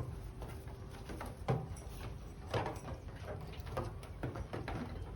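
A few short animal calls about a second apart, over steady background noise.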